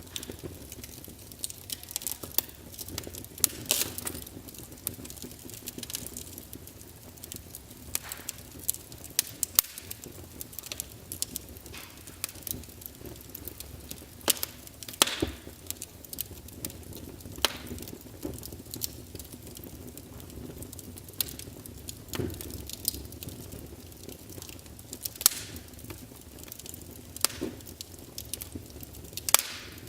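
Wood fire burning in a fireplace, logs crackling with frequent irregular sharp pops over a low steady rush of flame.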